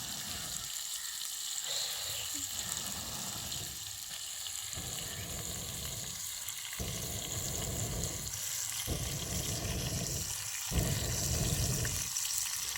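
Partridge meat frying with a steady sizzle, with low rumbling that comes and goes in stretches of a second or two.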